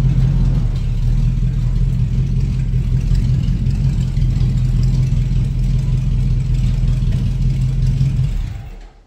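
1952 Ford F3 pickup's flathead engine running steadily through fiberglass-packed mufflers, then shut off about eight and a half seconds in.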